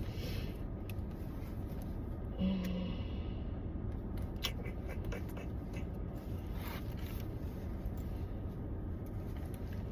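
Rummaging through a bag for cards: scattered rustling, scraping and small clicks of things being handled, over a steady low rumble inside the vehicle.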